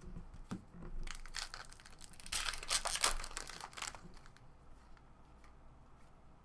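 Foil wrapper of a 2017 Topps Series 1 baseball card pack being torn open and crinkled: a burst of crackling from about a second in to about four seconds in, loudest in the middle.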